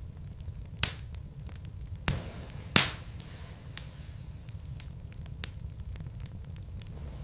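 Wood logs burning in a fireplace, crackling over a low steady rumble from the flames. Sharp pops come about one second in, again about two seconds in, and a louder one just before three seconds.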